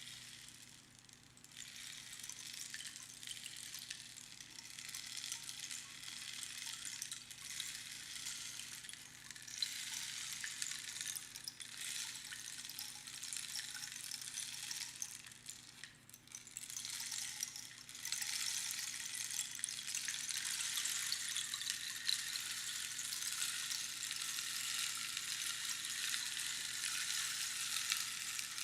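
Rainstick: pebbles trickling down through the pins inside the hollow tube, a dense rain-like patter. It has brief lulls about a second in and again around sixteen seconds in, and runs fuller and steadier after that.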